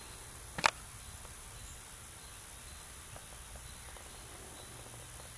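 Faint outdoor ambience with a steady high-pitched insect drone and a low rumble, broken by one sharp click about half a second in.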